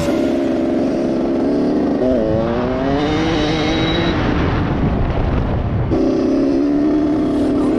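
Dirt bike engine running. Its pitch drops about two seconds in, then climbs steadily as it revs up and settles. The sound changes abruptly near the end, and a steady engine note takes over.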